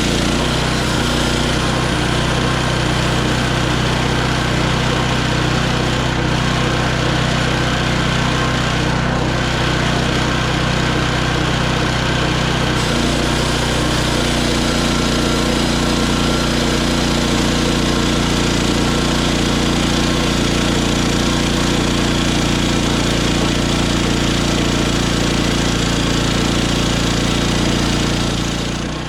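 Hudson HFE30 band sawmill running steadily, engine and band blade going together, typical of the mill sawing a log. Its note shifts a little about halfway through, and it fades out near the end.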